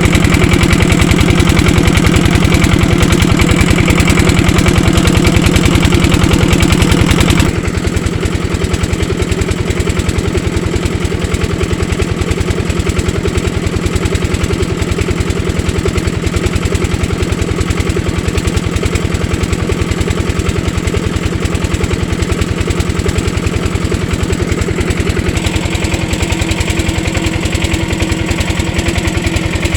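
Diesel engine of an irrigation pump running steadily with a rapid, even firing beat. It is louder for the first seven seconds or so, then drops to a lower, steady level.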